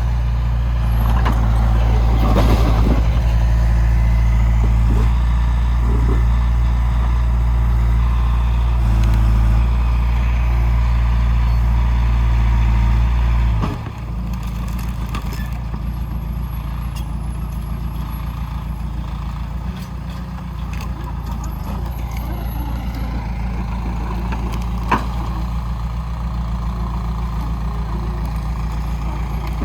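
Diesel engine of heavy earthmoving machinery running steadily with a deep drone. About halfway through it drops to a quieter, lower note as it throttles back. There is a single sharp knock near the end.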